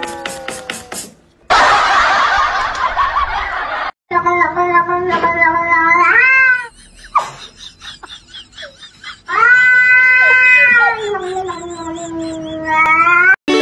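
Tabby kitten crying out in three long, drawn-out yowls while a dog pins it down, the last one short and rising. Before them comes a couple of seconds of loud rushing noise.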